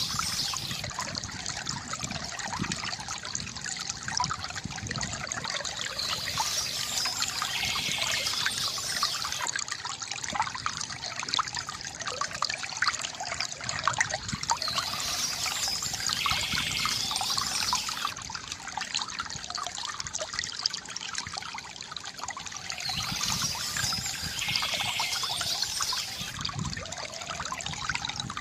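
Water trickling and splashing steadily from a bamboo fountain, with short bird chirps coming back about every eight seconds.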